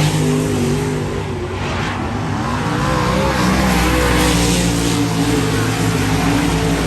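Dirt-track modified race cars running, several engines droning together with their pitch wavering up and down and a swell of noise about four seconds in.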